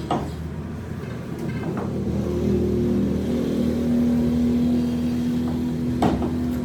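An engine running and revving up, with a steady whine that rises in level midway and two sharp metal knocks, one just after the start and one near the end.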